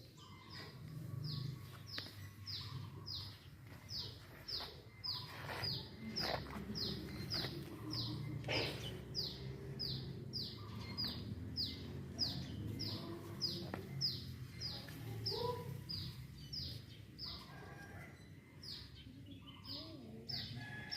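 A bird calling: a long, regular series of short, high-pitched notes, each falling in pitch, about two a second, over a low steady hum.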